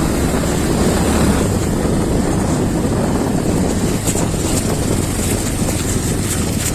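Motorcycle engine running steadily on a rough off-road track, with wind rumbling on the microphone.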